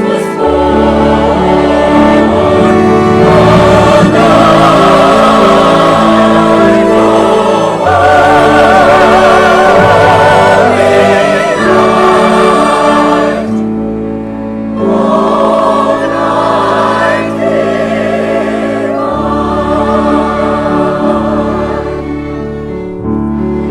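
Church choir singing with instrumental accompaniment under sustained low bass notes, the voices held with vibrato; the music dips briefly partway through.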